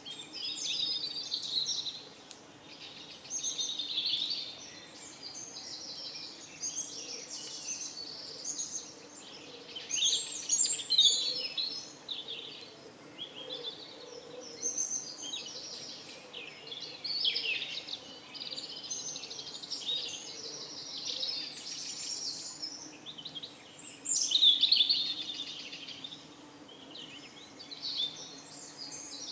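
Songbirds chirping and singing, several calls overlapping, louder in bursts every few seconds, over a faint steady low hum.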